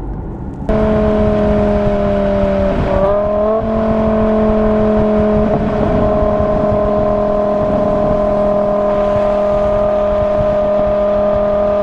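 A car engine running at a steady cruise, a constant droning note that starts suddenly about a second in; its pitch sags slightly and then steps back up around three seconds in, as with a change of throttle or gear, then holds steady.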